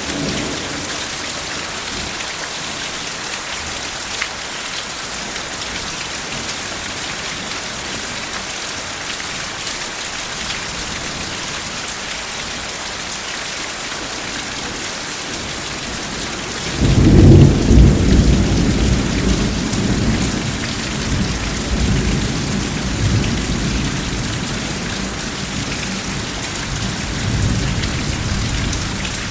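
Steady heavy rain falling, then a sudden loud thunderclap about two-thirds of the way through. The thunder rolls on and fades over the next several seconds, with a couple of further low swells.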